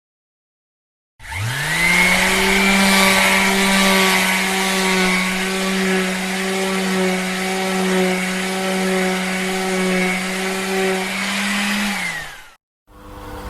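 A motor spins up quickly, runs at a steady pitched hum for about ten seconds, then winds down and stops.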